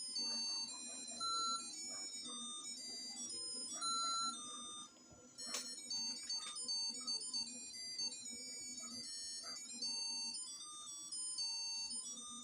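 A simple electronic melody of stepped beeping notes, like a toy or ringtone tune, over a low hum. A sharp click comes about five and a half seconds in.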